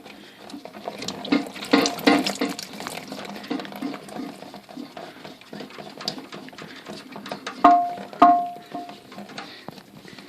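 Water draining from the toilet tank as the fill valve nut underneath is loosened, mixed with handling clicks and scrapes. Two sharp ringing knocks come about eight seconds in.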